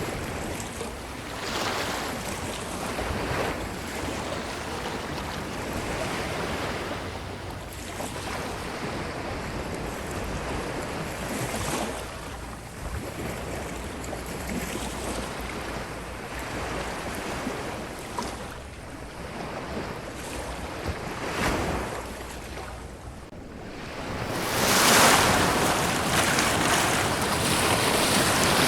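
Ocean surf washing onto a beach, swelling and ebbing in a slow rhythm. A larger wave breaks about 24 seconds in, and the surf stays louder from there.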